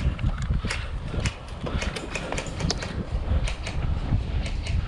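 Strong wind buffeting the microphone, a continuous low rumble, with scattered sharp clicks at irregular intervals.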